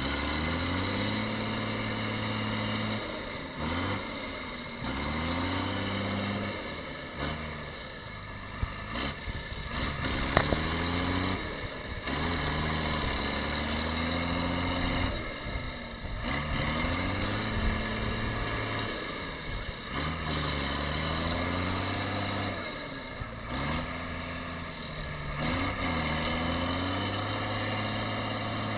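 Tractor engine running under heavy load, repeatedly revving up, holding and dropping back in pitch every few seconds.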